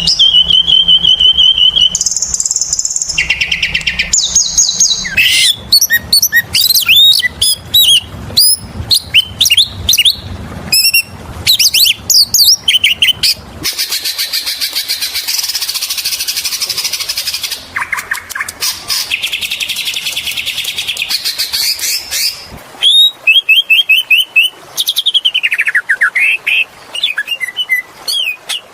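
Oriental magpie-robin (kacer) singing a long, varied, full-voiced song: runs of repeated whistled notes, quick chirps and sweeping notes, with a harsh, buzzy passage about halfway through and a falling whistle near the end.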